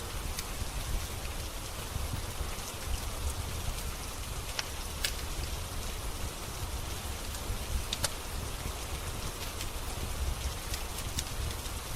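Steady rain with a low rumble underneath, and a few sharp pops scattered through it, notably around five and eight seconds in, from a crackling wood fire.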